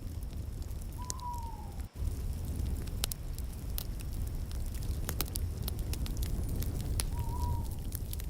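Wood fire crackling in a fireplace: a steady low rumble with frequent sharp pops and snaps. Twice a short whistle sounds, falling in pitch.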